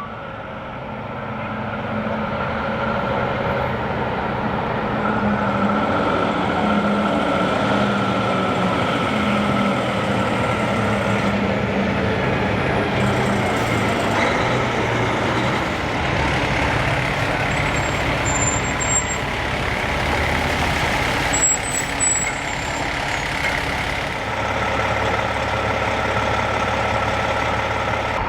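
Fire trucks' diesel engines running steadily as the ladder trucks pull up and stand.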